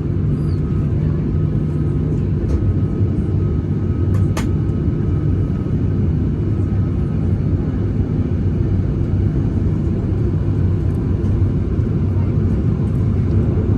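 Airliner cabin noise: a steady low rumble of engines and airframe heard from inside the cabin, with a brief click about four seconds in.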